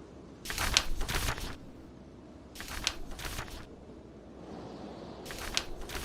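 Paper book pages being turned, three times about two and a half seconds apart, each a short papery rustle with a crisp flick. Underneath is a steady low bed of storm wind and fire.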